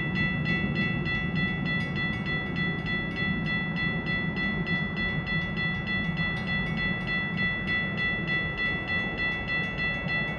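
Railroad grade crossing bell ringing steadily, with rapid, evenly spaced strikes of a high ringing tone, warning of an approaching train, over a low rumble.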